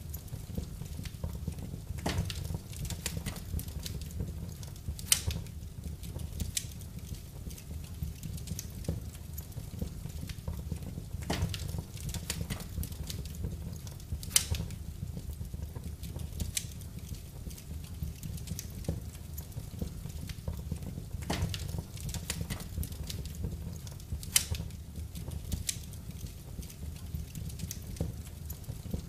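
Wood fire burning in a fireplace: a steady low rumble with irregular crackles and several sharp pops.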